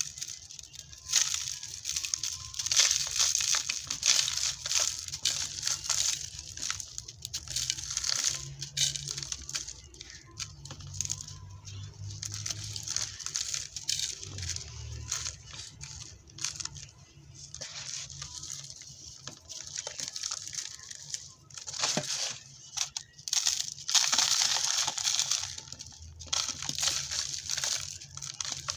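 Dry, dusty red dirt and sand-cement chunks crumbling and being crushed, a gritty crackling crunch that comes in irregular waves, loudest a few seconds in and again near the end.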